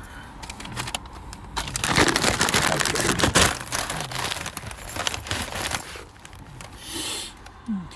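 A bag or food wrapper being handled and crinkling, loudest for a couple of seconds near the start, then softer rustling, with a short hiss near the end.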